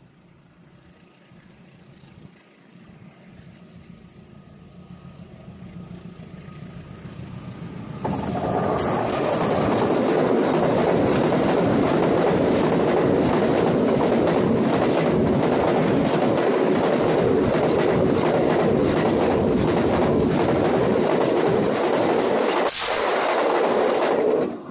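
A train passing directly over a microphone lying between the rails. The sound builds for about eight seconds as the train approaches, then turns into a loud, steady noise of wheels running on the rails overhead. It drops away sharply at the very end as the last car clears.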